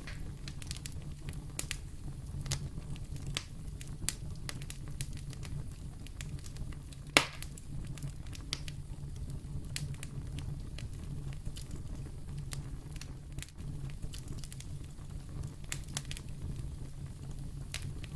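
Wood fire burning in a fireplace: a steady low rumble with scattered crackles, and one loud pop about seven seconds in.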